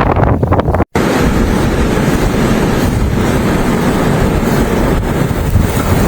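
Loud, steady rushing noise with no clear pitch, cut off briefly by a dropout about a second in.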